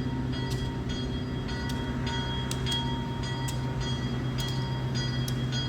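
Diesel locomotive engine running steadily during switching moves, with sharp metallic clicks every half second or so.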